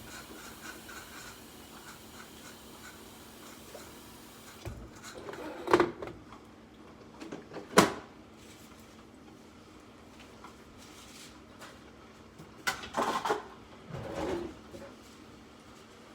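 A few sharp knocks and short clatters of household handling, the loudest about six and eight seconds in and another group near the end, over a faint steady hum.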